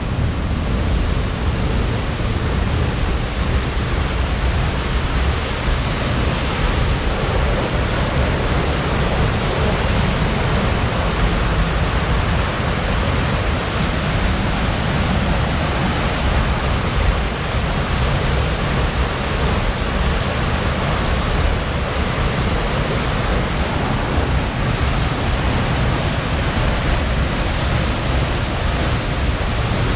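Large waterfall close by: a steady, loud rush of falling water.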